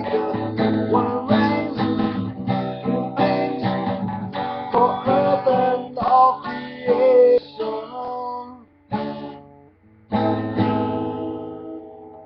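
Acoustic guitar strummed as the closing of the song: chords at a steady pace, then slowing to a few isolated strums and a short pause, before one final chord about ten seconds in that rings out and fades away.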